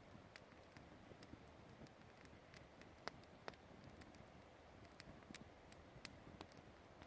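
Campfire crackling faintly, with small irregular pops and snaps from the burning wood, two of them sharper a little after three seconds.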